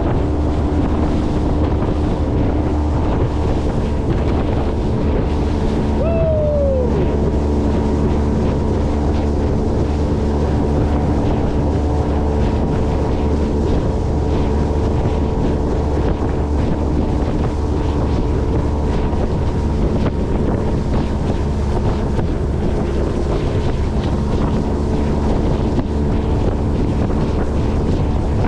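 Motorboat engine running steadily under way, with wind buffeting the microphone and water rushing past the hull. A short falling whistle-like tone sounds once, about six seconds in.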